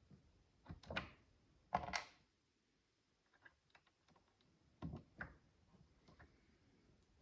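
Tiny plastic micro building bricks being handled and fitted: a few soft clattering rustles about one, two and five seconds in, with scattered light clicks between.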